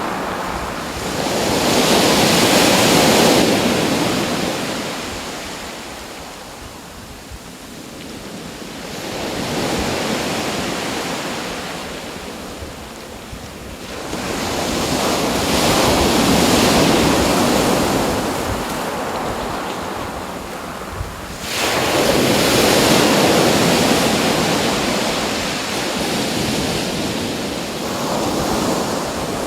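Ocean surf: waves breaking and washing up on a shore, the rush swelling and fading about every six seconds, one wave breaking more suddenly about two-thirds of the way through.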